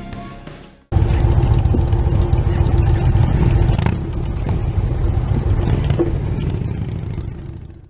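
Motorcycle engine running with a low, fast pulsing beat, starting suddenly about a second in and cutting off abruptly at the end. Closing music fades out just before it.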